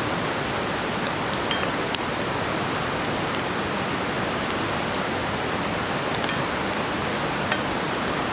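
Vegetables sizzling in a pan over a campfire: a steady hiss with a few scattered sharp pops and crackles.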